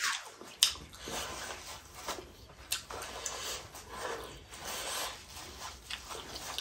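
A person chewing food close to the microphone: soft wet mouth sounds about twice a second, with a few sharper clicks.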